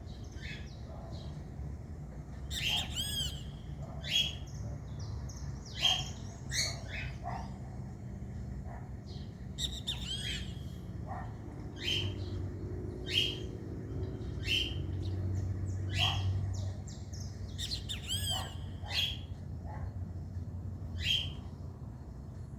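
Fork-tailed flycatchers calling: many short, sharp, high chirps, some in quick clusters of two or three, scattered throughout. A low steady rumble runs underneath.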